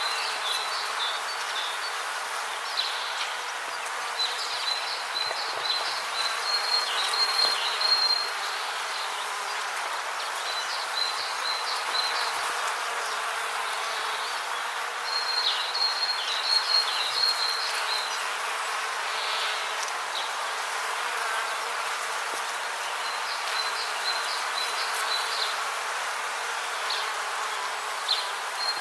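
Rainforest ambience: a steady hiss of background noise with bouts of high, rapid chirping calls that come and go every few seconds.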